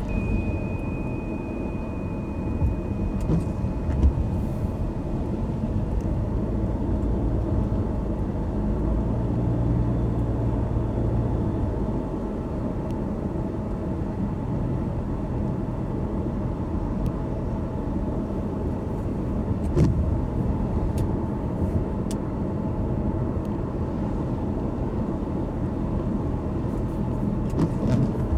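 A car driving, its engine and tyres making a steady low rumble, with a few faint knocks along the way. A thin high steady tone sounds for the first few seconds and then stops.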